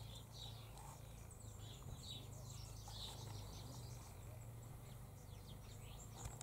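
Faint chorus of birds chirping and twittering, many short, quick downward-sweeping high notes, over a steady low hum.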